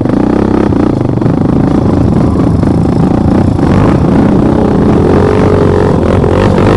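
Motorcycle engine running hard under load, revving with its pitch rising and wavering in the last couple of seconds.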